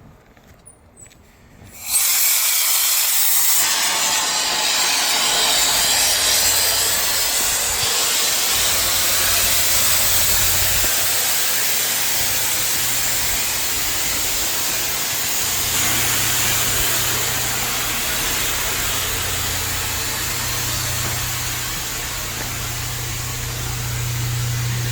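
A loud, steady hiss of rushing air that starts suddenly about two seconds in, with a low hum beneath it.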